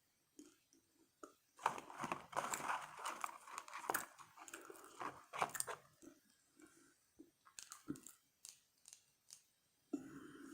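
Close-up chewing of fast-food french fries: crisp, crunchy bites and chewing, thickest in the first half, then sparser soft chewing clicks.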